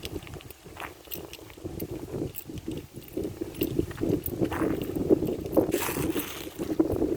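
Dust devil's gusting wind buffeting the microphone: a rough, uneven rumble that grows louder in the second half, with scattered clicks and crackles.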